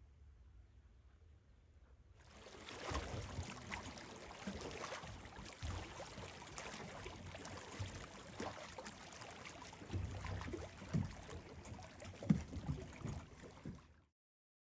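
Water sloshing and splashing against a small boat, with irregular slaps and low thumps, starting about two seconds in and cutting off suddenly near the end.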